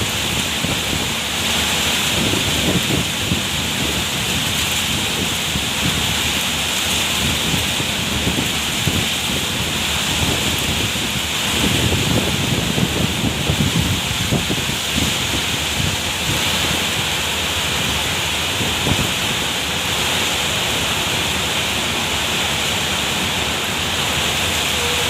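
Stormy weather: heavy rain as a steady hiss, with wind gusts rumbling on the microphone, strongest about halfway through.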